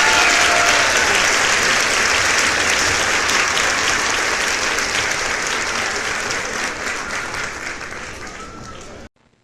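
Crowd applause with a dense patter of clapping and a couple of faint whistles, fading away over several seconds and cutting off suddenly near the end.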